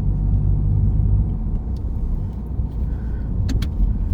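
Steady low rumble of a car's engine and tyres, heard from inside the moving car, with two short clicks about three and a half seconds in.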